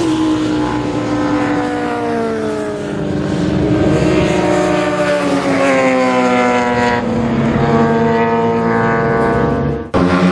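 Racing superbike engines at high revs, several overlapping, their pitch sliding down and then climbing again in repeated sweeps as the bikes shift and pass. The sound breaks off abruptly for a moment near the end.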